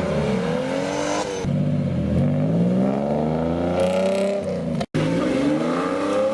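Sports car engines revving hard while accelerating away, the engine note climbing in pitch through each pull. The sound cuts out for a moment about five seconds in, and then another rising rev follows.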